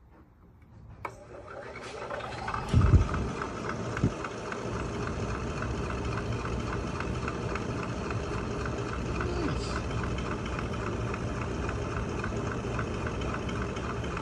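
Rebuilt box fan with plexiglass blades switched on: a click about a second in, then the electric motor spinning up over about two seconds to a steady whir with a fast even pulsing from the blades. Two short low thumps come near three and four seconds in.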